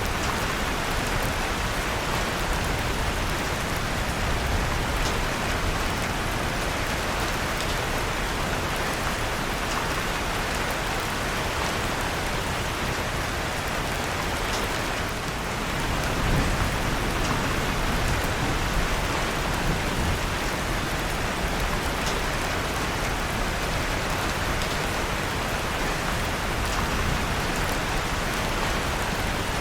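Steady, even rain sound mixed with the faint scattered crackle of a wood fire in a fireplace.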